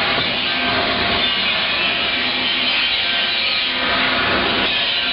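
Workshop tool rasping steadily against metal, a continuous sawing and scraping noise.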